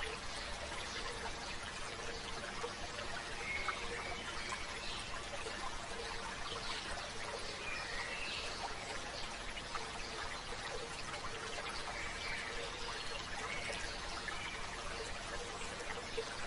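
A stream babbling steadily, with birds chirping now and then.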